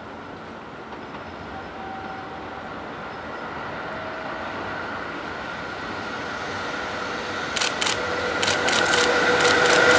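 EF66 electric locomotive hauling a container freight train approaching at speed, its running noise growing steadily louder. From about seven and a half seconds in, the wheels clack over the track joints in quick pairs as it comes close.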